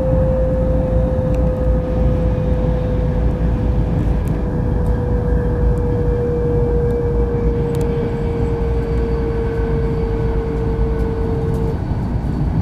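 Kyushu Shinkansen train running, heard from inside the passenger cabin: a steady rumble with a single whine that slowly falls in pitch and stops near the end.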